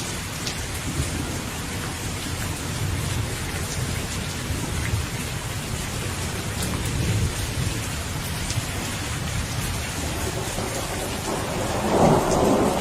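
Steady heavy rain with scattered drop ticks and rolling thunder rumbling underneath; a louder roll of thunder builds near the end.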